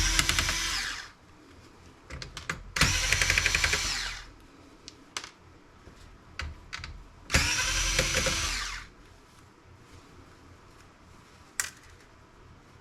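Power screwdriver running in three short bursts of about a second each, backing out the small screws of a laptop, with light clicks of screws and parts being handled between the bursts.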